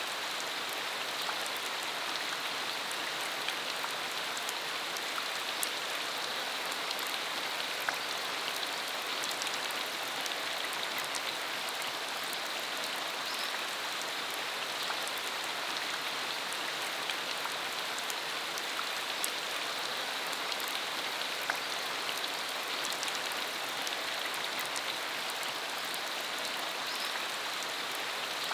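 Steady rain falling on a country dirt road: an even hiss with many separate drops ticking through it.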